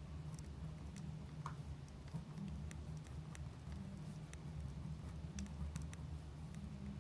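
Campfire crackling: irregular small pops and snaps over a low, steady background noise.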